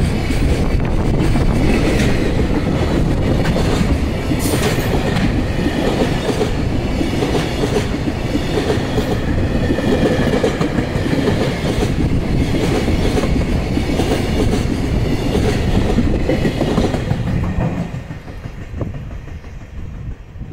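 Koki container flatcars of a JR Freight train rolling past close by, wheels clattering over the rail joints with a faint high metallic ringing. About three seconds before the end the last car goes by and the sound falls away, fading.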